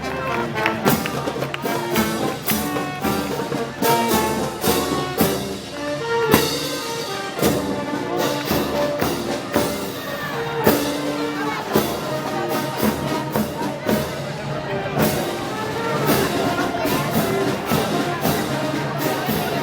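Brass band with drums and cymbals playing festival music, with a steady beat of about two strokes a second under the brass melody.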